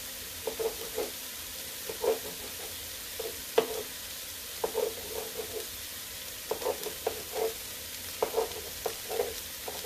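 Skinless chicken legs sizzling steadily as they brown in a hot pot, with scattered light taps and clicks over the sizzle and one sharper click about halfway through.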